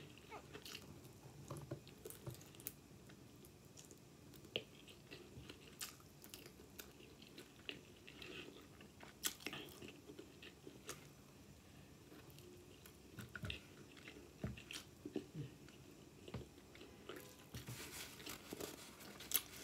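A person chewing and biting chicken wings, faint, with many short wet mouth clicks and smacks scattered through.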